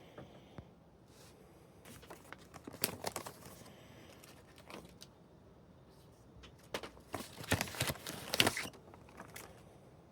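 Crinkling, crackling handling sounds from hand work during fret dressing on an acoustic guitar, in two bursts of short scratchy crackles: one about two seconds in, and a louder one from about seven seconds.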